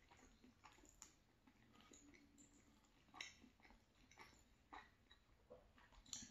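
Faint close-mouthed chewing of a mouthful of rigatoni pasta with sausage, with small wet mouth clicks scattered through it. The clearest click comes about three seconds in.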